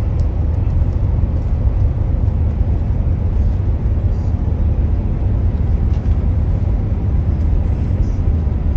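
Steady road noise inside a moving car's cabin on a snowy highway: a constant deep rumble of tyres and engine with a fainter hiss above it.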